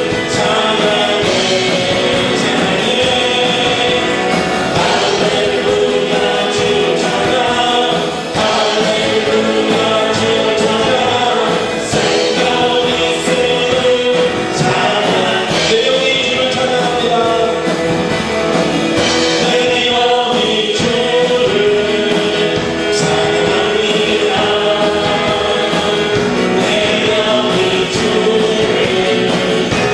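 A group of voices singing a gospel praise song with instrumental accompaniment, continuously and at a steady loudness.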